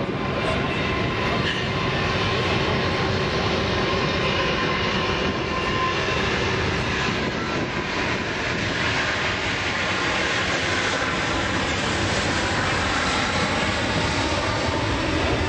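Aircraft engines running steadily: an even roar with a few constant tones held through it.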